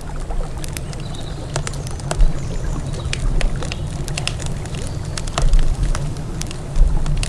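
Wood campfire crackling, with frequent irregular sharp pops and snaps, over a steady low rush of river water.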